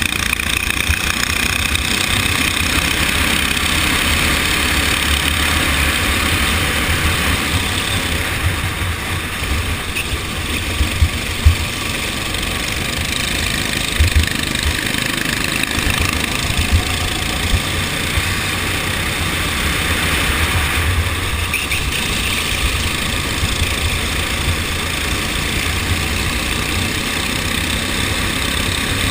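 TAG racing kart's two-stroke engine running steadily during a race, with a heavy low rumble underneath and a few short knocks in the middle.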